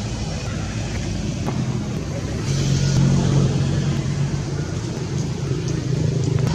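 A motor vehicle engine running steadily with a low hum, getting a little louder about two and a half seconds in.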